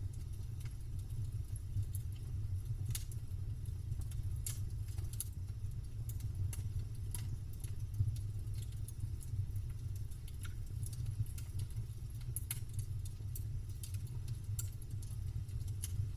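Campfire crackling: wood snapping and popping in irregular sharp clicks over a steady low rumble.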